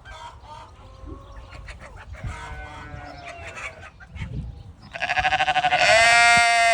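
Dorper sheep bleating: fainter calls through the middle, then one long, loud bleat starting about five seconds in that wavers at first and then holds steady until near the end.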